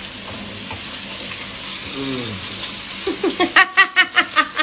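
Onions, lemongrass and green chillies sizzling as they are stir-fried in a wok, a steady frying hiss. A person's voice cuts in loudly about three seconds in, in quick repeated pulses.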